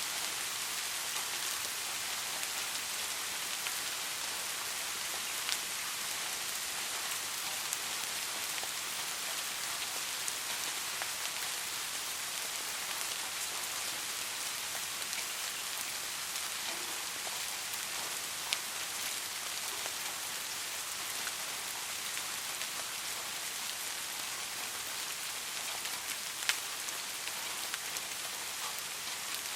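Steady soft rain falling, an even hiss with occasional sharper individual drops landing close by.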